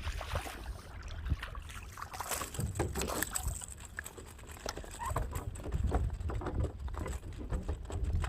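Kayak paddle strokes: the blades dip and pull through the water, with splashing and dripping in irregular bursts. A steady low rumble of wind on the microphone runs underneath.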